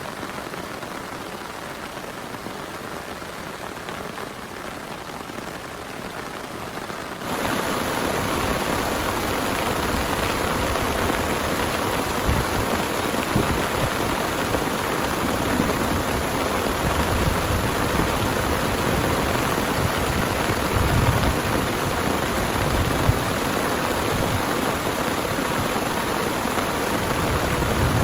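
Heavy rain falling steadily, suddenly much louder about seven seconds in, with some intermittent low rumbling later on.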